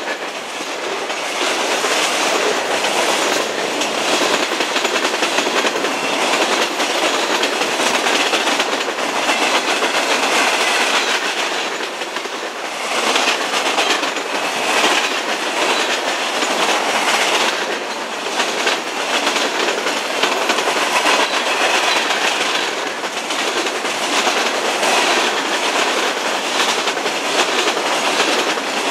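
Freight cars of a long train rolling past close by, their steel wheels clacking over the rail joints among a steady rumble and rattle of the cars.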